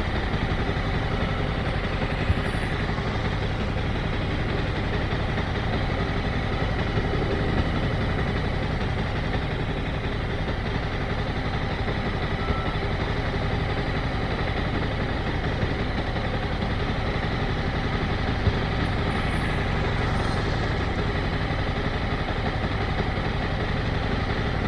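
Motorcycle engine running steadily at low revs, with no revving or gear changes.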